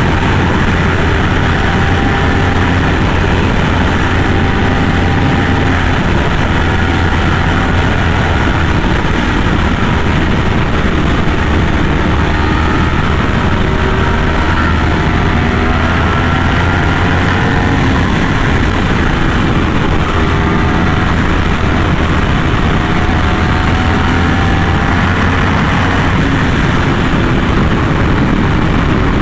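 Yamaha R1M's crossplane inline-four with an SC Project exhaust, running steadily under way at a cruise. Its note slowly rises and falls as the throttle changes, over a constant rush of noise.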